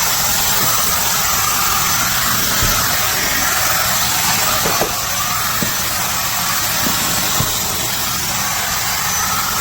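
Vacmaster UB0302E two-motor bagged upright vacuum cleaner running steadily with the hose wand attached, a mode in which its suction is much weaker. The level drops slightly about halfway through.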